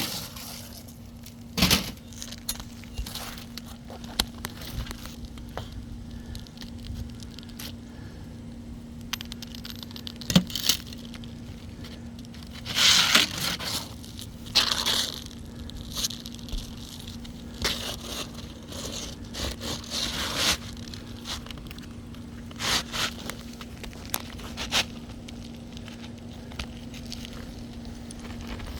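Asphalt roof shingles being lifted and pried loose: irregular scraping, crackling and tearing noises as the sealed tabs break free and the surface granules grind, over a steady low hum.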